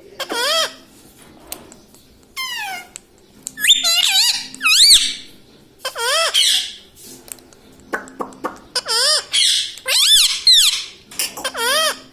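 Indian ringneck parrot calling in a series of about nine high, wavering squawks and whistles with short gaps between them, including one quick falling whistle about two and a half seconds in.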